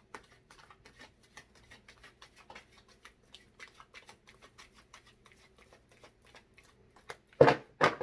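Tarot cards being shuffled by hand: a long run of soft, quick card flicks, then several louder sharp slaps of the cards near the end.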